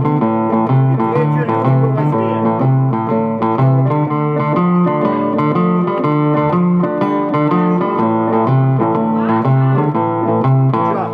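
Blues music played on guitar, over a steady run of bass notes.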